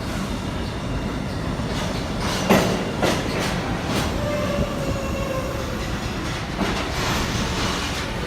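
New York City Subway train running through an underground station: steady wheel and motor rumble with a few sharp clacks of wheels over rail joints, loudest a bit over two seconds in. A faint wheel squeal joins about halfway through.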